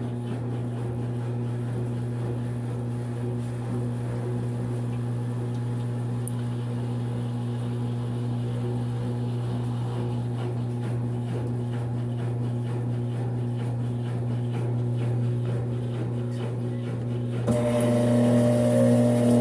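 Brastemp 5 kg top-load washing machine running in its spin cycle, a steady motor hum. About two seconds before the end it turns suddenly louder and a higher tone joins in.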